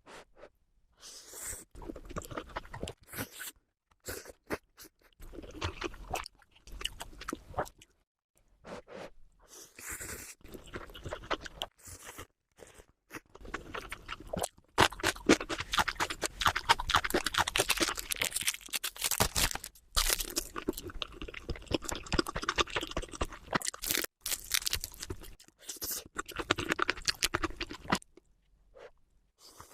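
Mukbang eating sounds played at double speed: food being crunched and chewed in quick bursts with short gaps, quieter in the first half and louder and denser from about halfway through.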